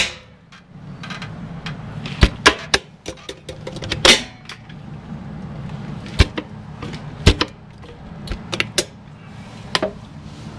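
Footsteps clanking on a fire truck's metal rear stairway: a string of sharp, irregular knocks, one every half second to second, over a steady low hum.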